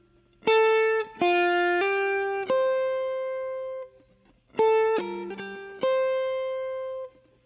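Guitar playing two short phrases of single notes at an unhurried pace, each phrase ending on a held note that rings out and fades, part of a bebop-style jazz line being worked through slowly.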